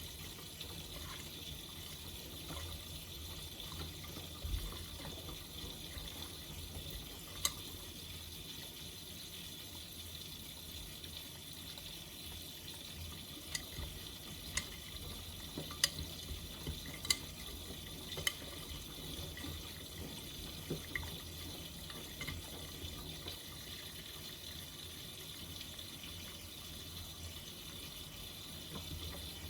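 Miele Navitronic W3985 washing machine in its final rinse with softener: water splashing in the drum as it tumbles, with a handful of sharp clicks about midway through.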